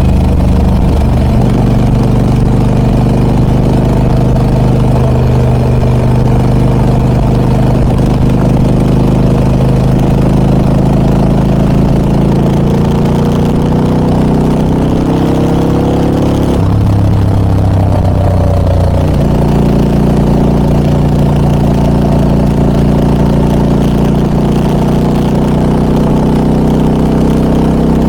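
Harley-Davidson Pan America 1250 Special's Revolution Max V-twin running through a Scorpion aftermarket muffler. It runs steadily, then its pitch climbs for a few seconds about halfway through and drops suddenly at an upshift, before settling into a steady note again.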